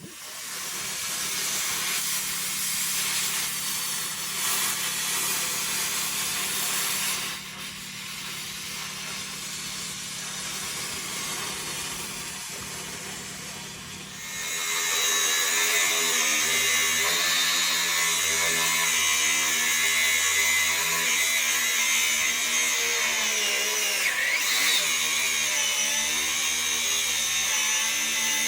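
An electric power tool runs on steel to free a seized suspension U-bolt. It starts suddenly, and about halfway through it gets louder, with a steady motor pitch that wavers a little under load.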